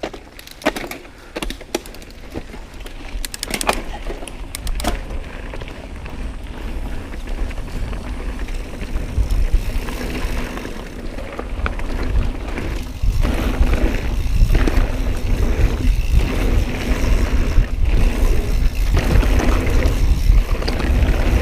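Mountain bike being ridden along a dirt trail: tyres rolling and the bike rattling over the ground, with a low rush of wind on the microphone that builds as speed picks up. A few sharp clicks sound in the first few seconds.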